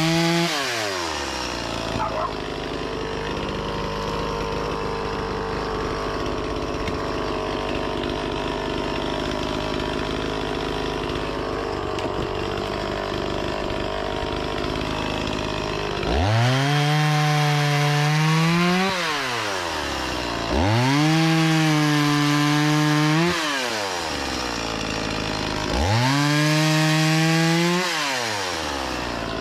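Two-stroke chainsaw dropping from high revs to idle in the first second, idling steadily, then throttled up three times, held high for two to three seconds each and let back down to idle.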